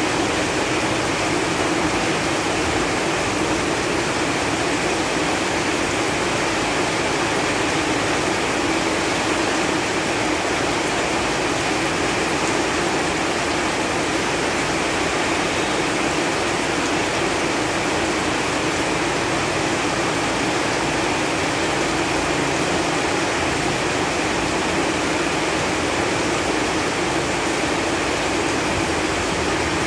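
Steady rain falling on leaves, an even hiss of drops with no pauses or separate louder hits.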